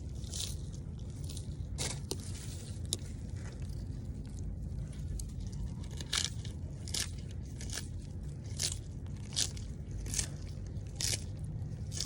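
Sulcata tortoise biting and crunching food, a crisp bite roughly every second.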